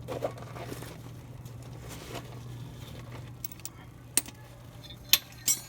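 Metal hand tools clinking, with a few sharp clicks: one about four seconds in and two louder ones near the end, over a steady low hum.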